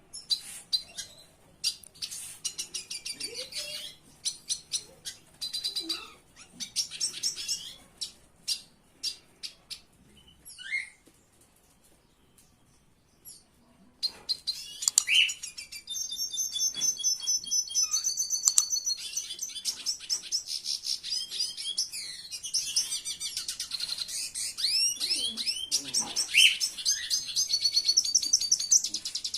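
Small songbirds chirping: scattered high chirps and short calls, then a few seconds of near quiet, then about halfway through a dense chorus of many birds chirping and trilling at once.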